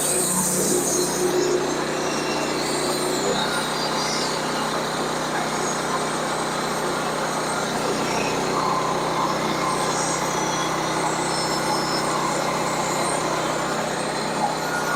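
Sawmill engine running steadily under a constant hum, with a fairly even level throughout.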